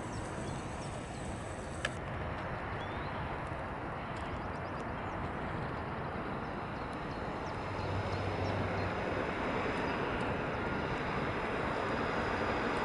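Airbus A330-200's jet engines heard at a distance: a steady rumble that grows slowly louder, with one faint click about two seconds in.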